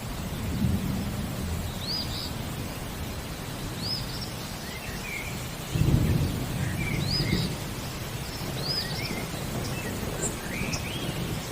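Steady rain with low thunder rumbling, a stronger roll about six seconds in. Over it a bird repeats a short, high, arched note about every two seconds, with softer chirps in between.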